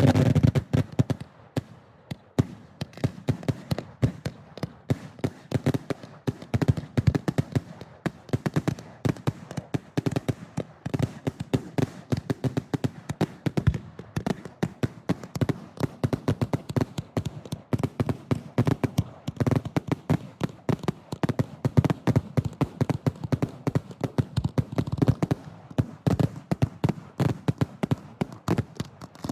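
Fireworks finale heard from close to the launch site: shells firing and bursting in a dense, continuous barrage of overlapping bangs and cracks, several a second.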